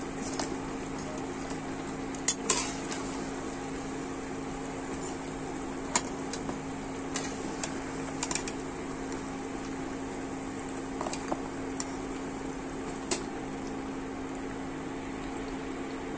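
Urad dal vadas frying in hot oil in a metal wok, a steady sizzle, with sharp clinks and scrapes of a metal slotted spatula against the pan every second or two as the fried vadas are lifted out.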